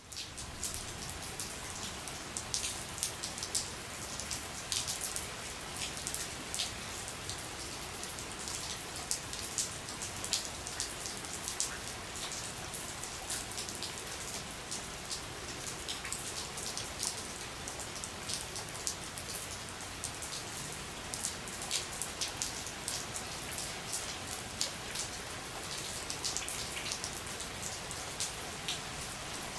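Steady rain pattering on a surface: an even hiss full of small drop ticks.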